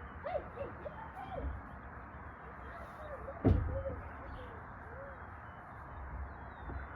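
A string of short, arching animal calls, a cluster near the start and another a few seconds later, with a single thump about three and a half seconds in.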